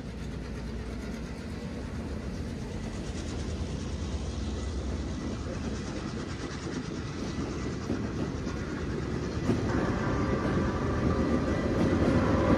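Train rolling along the rails and coming closer, a steady rumble and clatter of wheels that grows louder throughout. Thin, higher ringing tones join in near the end as it gets loudest.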